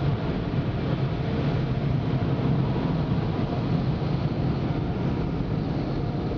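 Car wash machinery running: a steady low rumble with an even hiss over it that does not let up.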